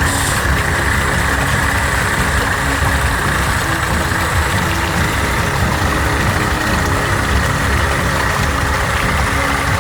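Steady engine-like drone of a miniature RC dump truck, with low rumble and faint steady tones over a constant rushing noise.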